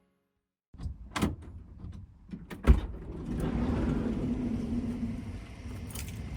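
Clicks and knocks of a van door being handled, with one loud thump about two and a half seconds in, followed by a steady rushing noise with a low hum.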